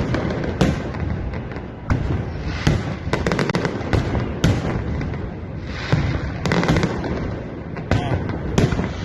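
A loud, irregular series of sharp bangs and pops over a continuous low rumble, with a quick run of crackles about three seconds in.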